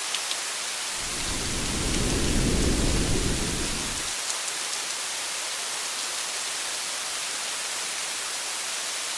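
Steady rain hiss, with a low rumble of thunder starting about a second in, lasting about three seconds and cutting off abruptly.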